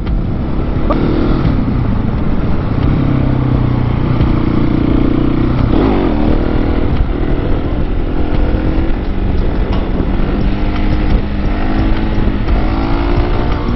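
Husqvarna 701 Supermoto's single-cylinder engine running under way, its pitch shifting as the revs change about six seconds in, over a steady rush of wind noise.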